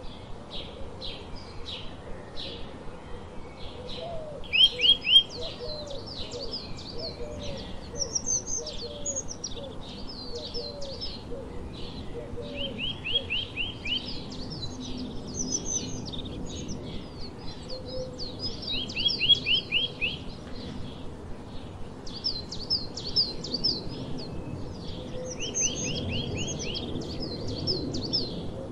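Small birds chirping, house sparrows among them: constant short chirps, with a quick run of rapid repeated notes that comes back about every six to seven seconds. A fainter, low repeated call runs under the chirping for the first half.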